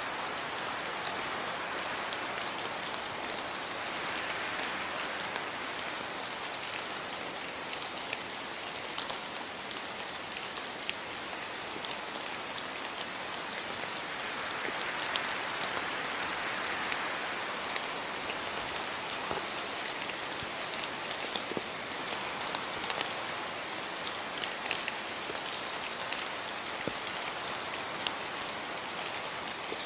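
Steady rain falling, a continuous hiss with many individual drops ticking sharply on hard surfaces.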